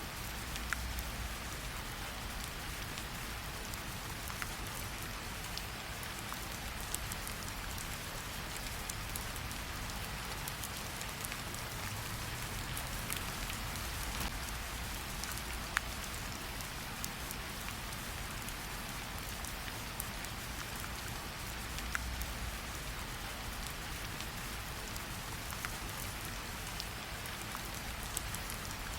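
Steady rain falling, with scattered sharp pops and crackles from a wood campfire.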